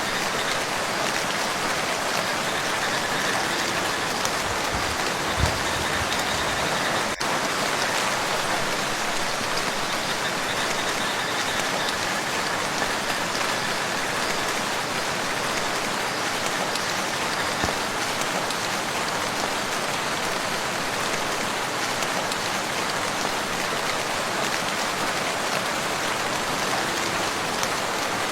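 Steady rain falling on a lake's surface, an even patter of drops, with a brief low thump about five seconds in.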